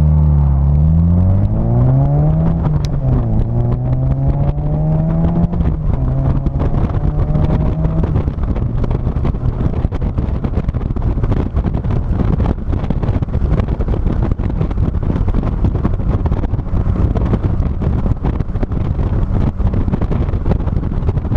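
A 2006 NC Mazda Miata's 2.0-litre four-cylinder engine accelerating, its pitch rising for about two seconds, dipping about three seconds in, then holding steady. From about eight seconds in, the engine is buried under loud wind buffeting on the trunk-mounted microphone.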